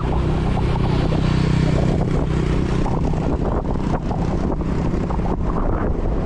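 A motor vehicle's engine passes close by, its hum building and then fading over about four seconds. Wind rumbles on the microphone of a moving bicycle throughout.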